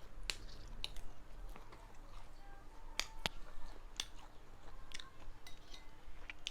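A person chewing a mouthful of rice and dal close to the microphone, with wet mouth clicks and smacks at irregular intervals.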